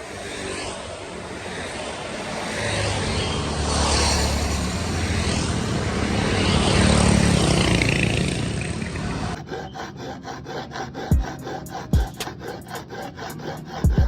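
A rushing noise with a low rumble that swells and fades over several seconds. About two-thirds of the way in it cuts abruptly to music with a steady beat.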